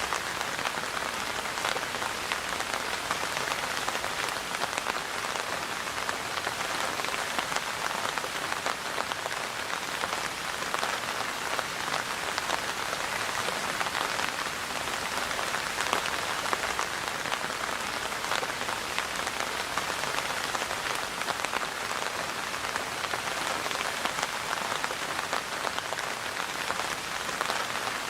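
Steady rain falling, an even hiss made up of many separate drop ticks, with no change in strength.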